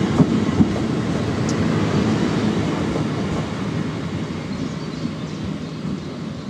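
Departing passenger train running out of the station, its steady rumble slowly fading as it draws away.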